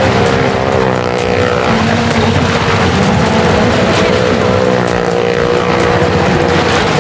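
Engines of two small cars and a motorcycle running hard as they circle the wall of a well-of-death drum, the engine pitch wavering up and down.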